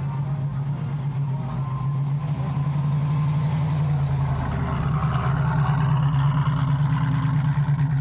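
Car engine running steadily at low revs, getting gradually louder over the first several seconds.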